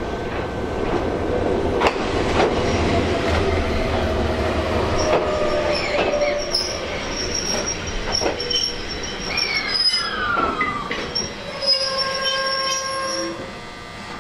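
Ichibata Electric Railway electric train moving through the station, its wheels clanking irregularly over rail joints and points. Steel wheels squeal on the rails, with a falling squeal about ten seconds in. The sound fades near the end.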